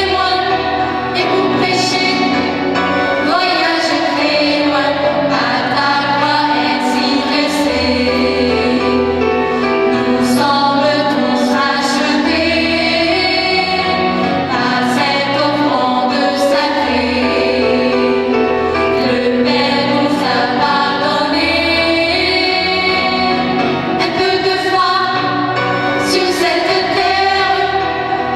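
A mixed choir singing a song with female voices prominent, over instrumental accompaniment with a low bass line that changes note every second or two.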